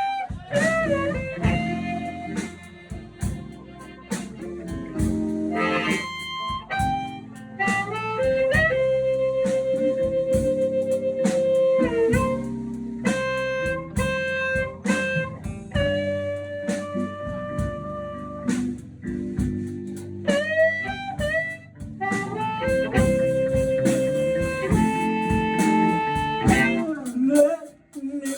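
Blues instrumental introduction: a harmonica holds and bends long notes over guitar accompaniment.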